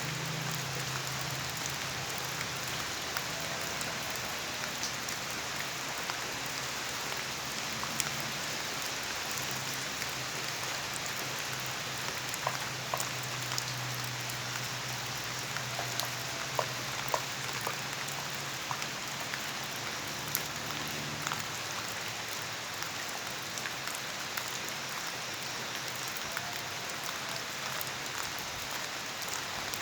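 Steady rain falling, an even hiss with scattered sharper drip ticks. A faint low hum runs underneath and fades out about two-thirds of the way through.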